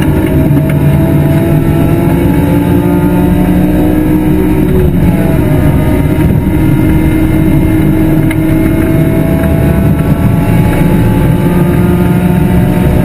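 BMW E46 M3's S54 3.2-litre inline-six racing engine, recorded on board at speed on track. Its note slides down over the first few seconds, changes about five seconds in, then holds and rises again.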